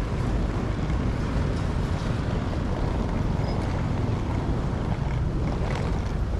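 Steady low rumble of a ferry's engine with a rushing, wind-like noise over it.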